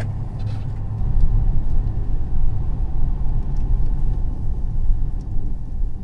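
Ford F-350 pickup truck driving, heard from inside the cab: a steady low road-and-engine rumble that gets louder about a second in.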